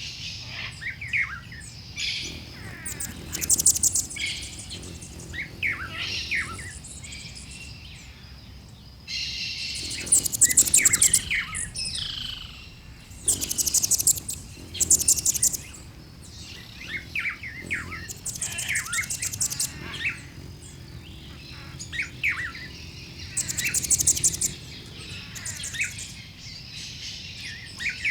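Background birdsong ambience: several birds chirping, with a rapid, very high trill recurring every few seconds.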